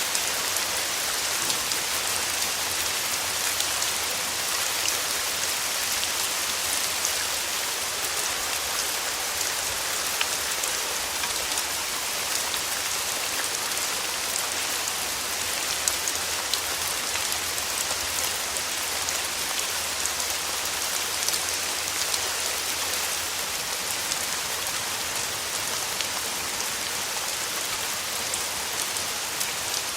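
Steady rain falling, a continuous hiss of drops on surfaces with many fine individual drop patters.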